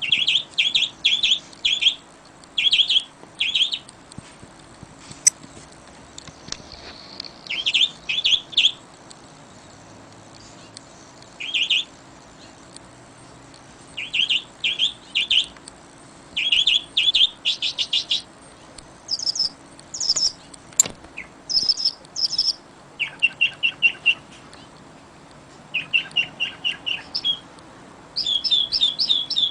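Birds singing: runs of short, quick chirps, several notes at a time with pauses between, over a faint steady hiss.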